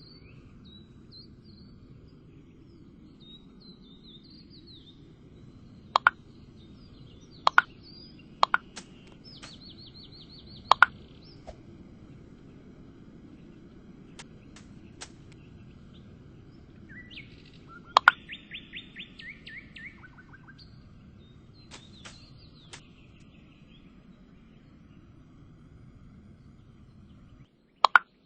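Birds chirping, with two rapid trilled calls, over a steady low background rumble. Sharp knocks come every few seconds, mostly in quick pairs, and are the loudest sounds.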